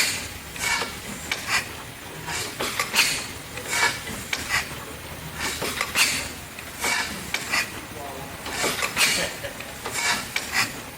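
1890 Murray Iron Works Corliss steam engine running slowly, its valve gear making a repeating, somewhat uneven rhythm of metallic clicks and hisses, roughly every half to one second.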